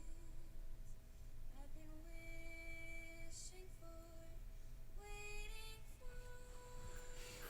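Faint song with a woman's voice singing slow, held notes in English over soft instrumental backing, with light cymbal-like hiss twice.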